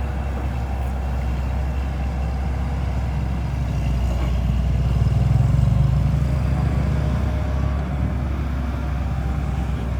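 An engine running steadily with a low rumble, which grows louder for a couple of seconds around the middle and then eases back.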